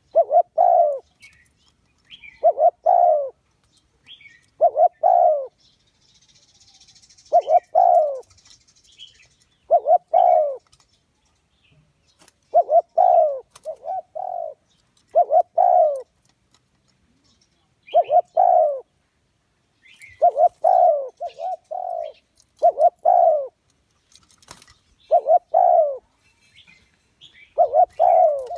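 Spotted dove cooing over and over: short phrases of two or three low coos, repeated about every two to three seconds. It is the dove's song played as a decoy call to draw wild doves to a trap. Faint higher chirps sound between the phrases.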